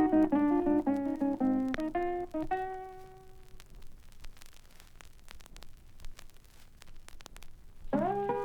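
Blues guitar plays the closing phrase of a song, ending on a ringing note that dies away about three and a half seconds in. A few seconds of quiet vinyl crackle and clicks follow in the gap between tracks, then guitar starts the next song near the end.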